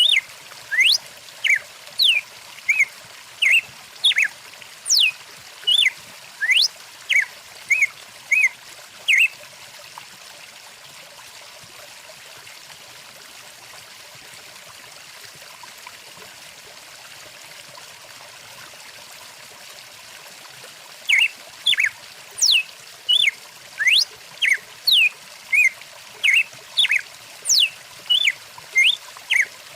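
A stream's water trickling steadily, with a bird singing a quick series of short sweeping notes, about two a second. The song stops about ten seconds in and starts again after about twenty seconds.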